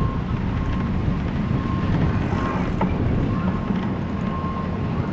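Wind buffeting the microphone while cycling, a steady low rumble. A faint thin high tone comes and goes, and a single click sounds near the middle.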